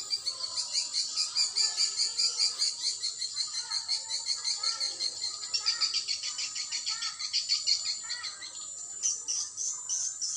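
Swiftlets twittering: a dense, fast stream of high chirps, easing off briefly about eight seconds in.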